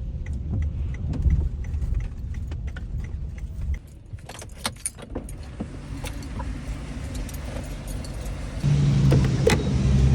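Inside a minivan: the car rolls with even ticking about twice a second, then the engine is switched off about four seconds in. Keys jangle and clicks follow, and a loud steady hum starts near the end.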